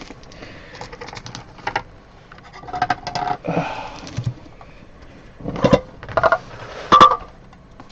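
Trading cards and their packaging being handled on a table: light clicks and rustles, with a few sharper knocks in the second half.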